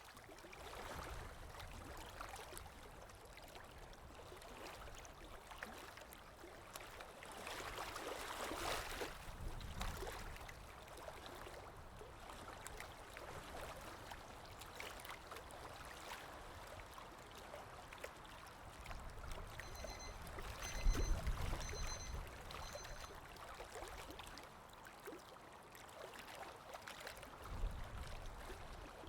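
Water lapping with wind, a steady wash that swells and eases. About two-thirds of the way through, a digital watch alarm gives four quick high-pitched beeps.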